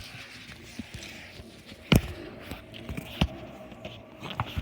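Sulcata tortoise lunging and biting at a watermelon rind, making a few sharp knocks and crunches. The loudest comes about two seconds in and another a little past three seconds.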